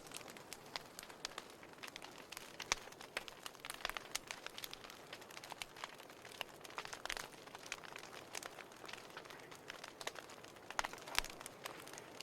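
Burning firewood crackling and popping in irregular sharp snaps over a steady soft hiss of flame, with a few louder pops along the way.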